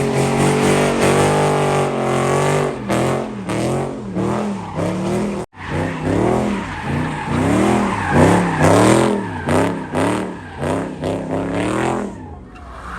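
Car engine revving hard, its pitch swinging up and down over and over, about twice a second, with tyres squealing, as in donuts or a burnout. There is a split-second break about five and a half seconds in, and the sound drops away near the end.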